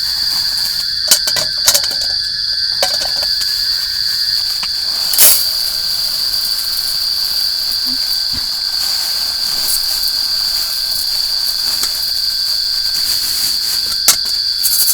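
A steady, high-pitched drone of forest insects, with a few sharp clicks or knocks over it, the loudest about five seconds in.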